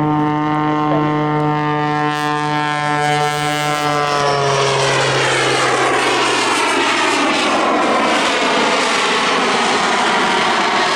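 Jet Pitts aerobatic biplane flying its display: the engine and propeller drone with a strong, steady pitched tone, which falls in pitch about four to five seconds in and gives way to a loud, broad rushing noise.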